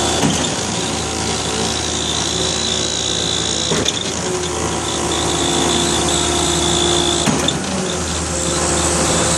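Construction machinery engines running steadily, a deep hum with a high whine on top, with sharp knocks about four and seven seconds in.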